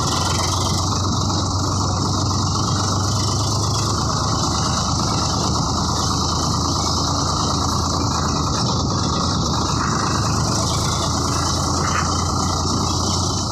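Swaraj 855 FE tractor's diesel engine running steadily.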